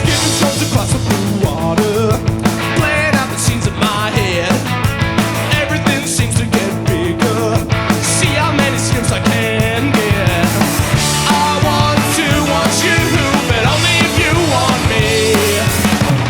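Rock band playing a song live, with a drum kit keeping a steady beat under bass and other pitched instruments.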